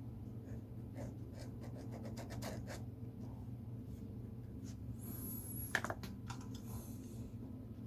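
Drawing strokes on paper: quick scratchy ticks, then a brief high rasp about five seconds in and a sharp tap just before six seconds. A steady low hum runs underneath.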